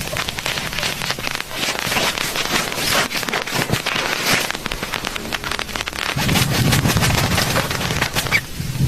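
Heavy rain pattering on a surface, a dense crackle of drops, with a low rumble coming in about six seconds in.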